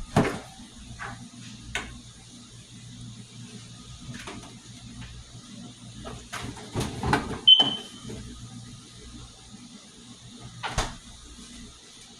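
Kitchen clatter: scattered knocks and clicks of items and doors being handled, with a busier run of knocks a little past halfway and one short ringing clink just after it, over a faint steady low hum.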